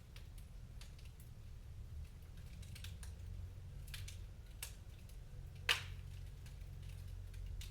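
Wood fire crackling in a fireplace: irregular small pops and snaps over a low steady rumble, with one louder pop near the end.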